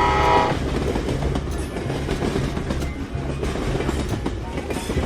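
Train running on rails, a steady rumble. A held tone made of several pitches ends about half a second in.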